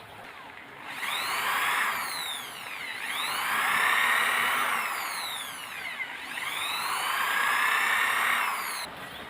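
A small electric motor whining in three long swells, its pitch dipping and rising again between them. It starts about a second in and cuts off near the end.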